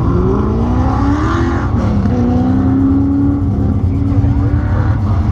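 Car engine under hard use on an autocross course: its pitch climbs for a little under two seconds, drops abruptly, then rises again and holds steady, over a heavy low rumble.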